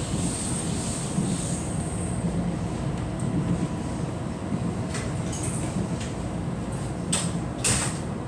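Passenger train running along the track, heard from on board: a steady rumble, with a few short sharp clacks in the second half.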